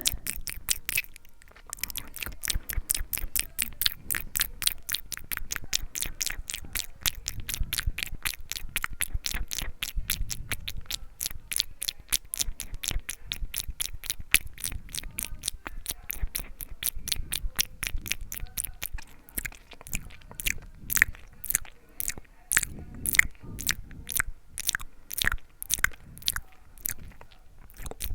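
Close-miked ASMR mouth sounds: a rapid, steady run of wet tongue and lip clicks and smacks, about four or five a second, with a short pause about a second in.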